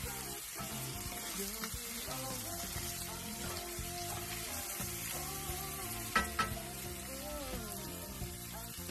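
Diced pork sisig sizzling as it fries in a skillet and is stirred, with two sharp knocks close together about six seconds in.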